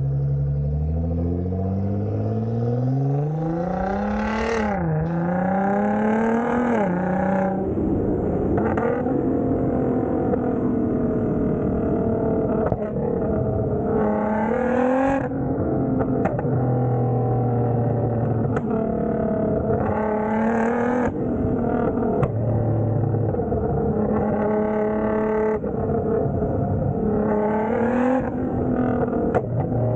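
Straight-piped Nissan GT-R's twin-turbo V6, fitted with aftermarket downpipes and a custom exhaust, being revved again and again: the pitch climbs over the first few seconds, then a string of rev blips every few seconds over a steady running note between them.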